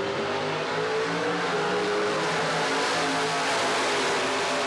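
Drag-racing car's engine at full throttle, accelerating hard down the strip, with a steady, loud engine note and road noise.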